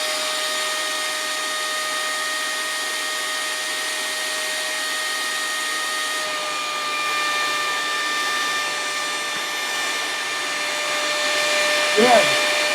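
Small hand vacuum cleaner running steadily with a high whine, drawing the air out of a mylar food-storage bag through a small hole in it. Its tone shifts slightly about halfway through.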